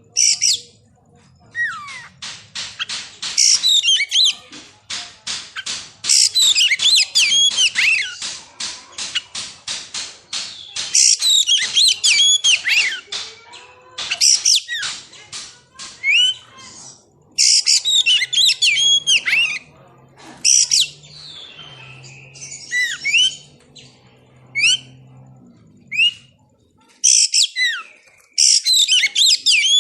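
Oriental magpie-robin (kacer) singing in loud bursts of varied whistles, swooping notes and quick trills, broken by short pauses. A fast rattling run of notes comes a couple of seconds in and lasts several seconds.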